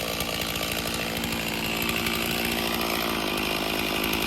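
Stihl two-stroke chainsaw running steadily at an even pitch.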